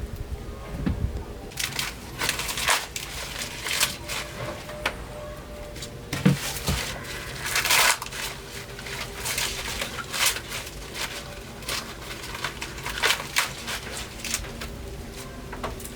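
Crunching and rustling of dry corn plants being handled, in irregular bursts with several louder crunches.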